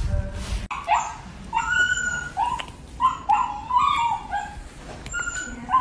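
A dog whining and yipping in a series of short cries that bend in pitch.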